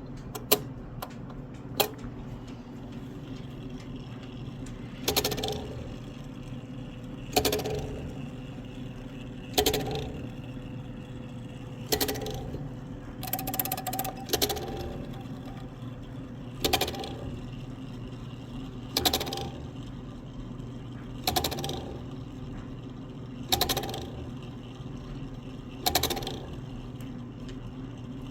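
Mantel clock movement, out of its case, striking: a slow series of about ten metallic strikes, each ringing briefly, spaced a little over two seconds apart, over a steady low hum. Two light clicks come near the start.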